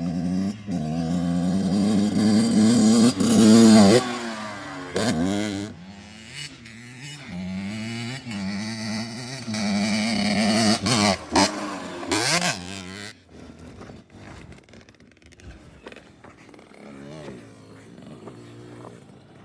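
Dirt bike engine revving hard, its pitch climbing, then cutting off about four seconds in. It revs up again and blips the throttle a few times before dropping to a faint, low running sound after about thirteen seconds.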